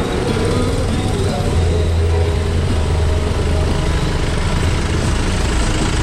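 A motor vehicle running steadily on the road, a loud low drone with road noise.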